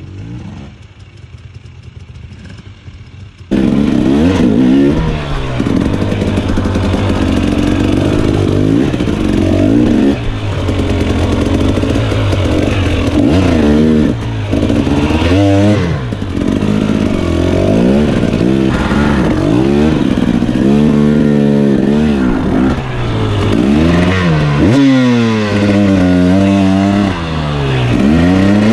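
Dirt bike engine under riding load, quiet for the first few seconds and then suddenly loud and close. Its pitch rises and falls over and over as the throttle is opened and closed along the trail.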